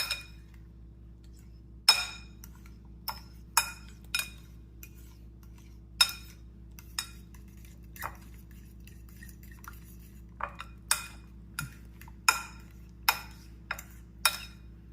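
Metal utensil clinking irregularly against the side of a dish while stirring mashed banana and egg together, each strike ringing briefly. A faint steady low hum runs underneath.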